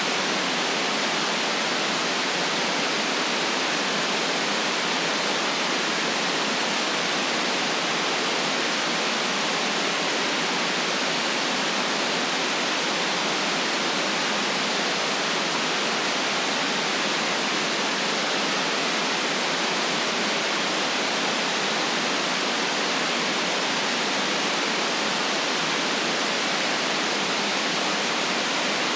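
Steady white noise: an even, unchanging hiss with nothing low in it and no variation at all.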